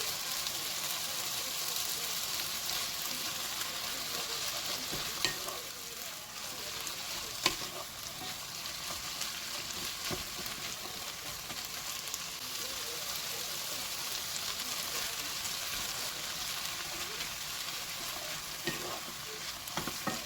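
Food stir-frying in oil in a pan, a steady sizzle as it is stirred. A utensil clicks sharply against the pan about five seconds in and again at seven and a half seconds, with a few lighter taps near the end.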